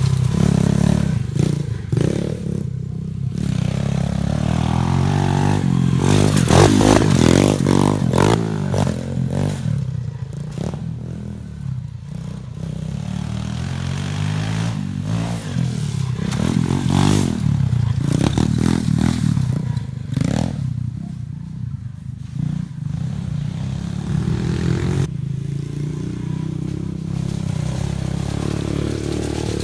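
125cc pit bike's single-cylinder four-stroke engine running as it is ridden around a dirt track, the revs rising and falling repeatedly with the throttle, with scattered knocks mixed in.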